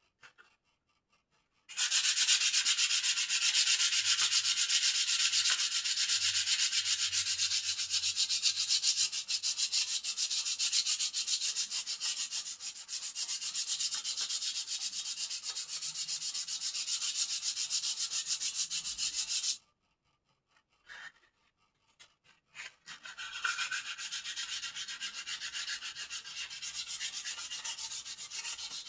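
A bird cage being smoothed by hand sanding, with fast, scratchy back-and-forth rubbing strokes. The rubbing starts about two seconds in and stops for a few seconds around two-thirds of the way through, with a couple of light clicks in the gap. It then resumes, quieter, near the end.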